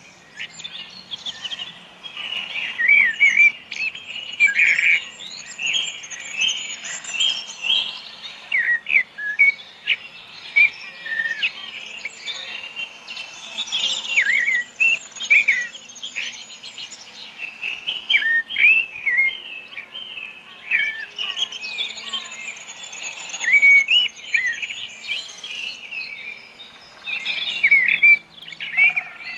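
Many birds chirping and calling together, a constant overlapping chatter of short, high, quick notes.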